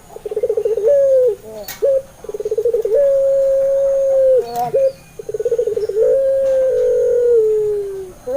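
Puter pelung (Barbary dove) cooing. It gives three rounds of a rapid stuttering roll, each followed by a long held note, and the last held note slides slowly down in pitch.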